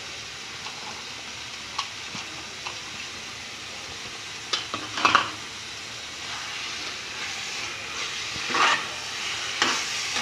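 Grated carrot halwa frying in ghee in a metal pan, a steady sizzle, with a metal spoon scraping and stirring through it in a few short bursts, the loudest about five seconds in and again near the end.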